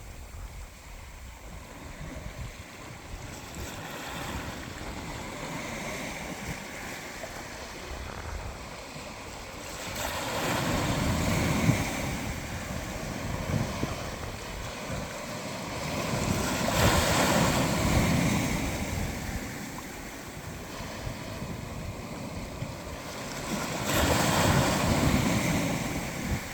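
Atlantic Ocean surf: waves washing in on the shore, building to three louder surges about six or seven seconds apart between quieter stretches.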